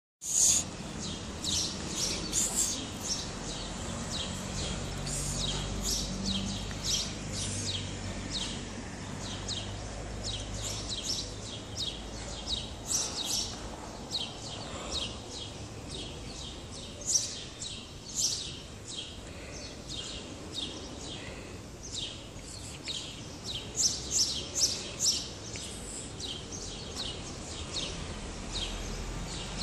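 Small birds chirping, many short high chirps repeating irregularly.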